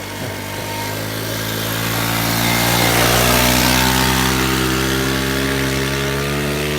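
Pit bike engine held at full throttle on a hill climb, a steady high-revving drone that grows louder over about three seconds and then holds.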